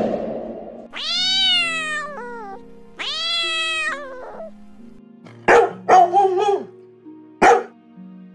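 Two long cat meows, each rising then falling in pitch, then three short, sharp dog barks, over background music.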